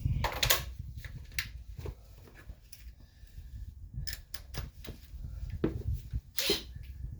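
Irregular clinks and knocks of metal hand tools being handled: a socket and ratchet picked up and fitted while trying socket sizes on the strut-mount nuts.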